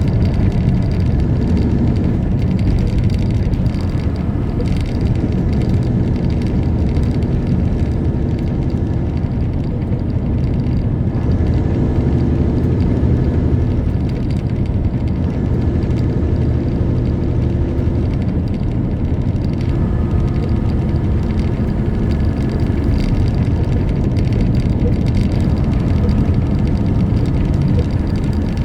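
Semi-truck on the road: steady diesel engine and tyre noise.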